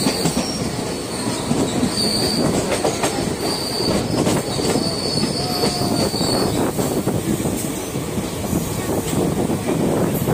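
Express passenger train running on the rails: a steady clattering rumble of wheels, with frequent rail-joint clicks and a thin high squeal that comes and goes.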